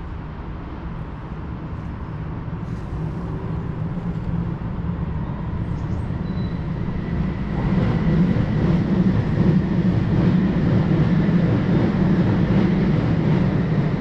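Jubilee line 1996 Stock Underground train approaching and running beneath, a steady rumble of wheels on rails that builds up from about halfway through and stays loud.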